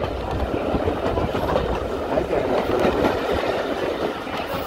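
Jacobite steam train's carriages running steadily along the track, heard from an open carriage window: a continuous rolling rumble of wheels on rails.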